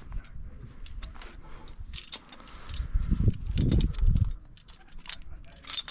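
Metal climbing hardware clinking and jangling in many short, sharp clicks as gear is handled at the anchor, with a low rumble about three to four seconds in.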